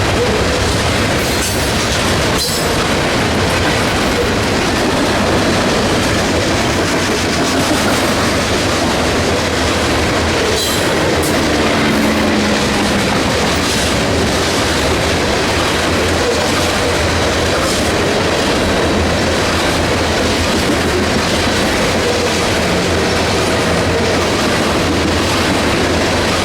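Train cars rolling past on the rails, a loud steady rumble with a few sharp clicks of wheels over rail joints.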